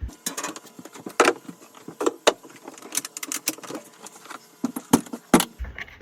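Irregular clattering: hard objects being knocked and rattled as they are handled, with a dozen or so sharp knocks. The loudest come about a second in, about two seconds in, and near the end.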